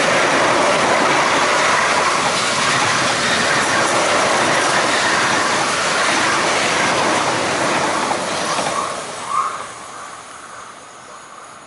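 An MTR East Rail line Metro-Cammell electric multiple unit passes close by at speed: a loud, steady rush of wheels on rail. It fades away near the end.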